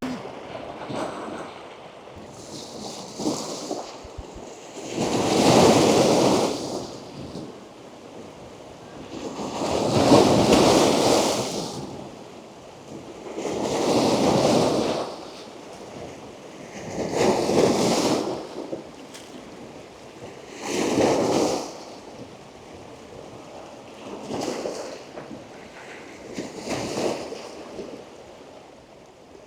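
Strong ocean surf breaking on rocks: a series of waves, each crashing in a loud rush and washing back, about one every three to four seconds over a steady background wash.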